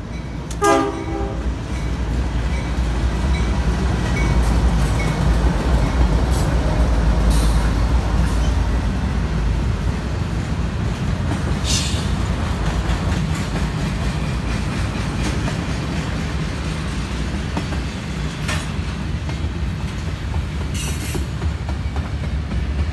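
CSX freight train passing at speed: a short horn blast from the diesel locomotives about half a second in, then a loud steady rumble of the engines and the double-stack container cars rolling by, with a few sharp clanks from the wheels.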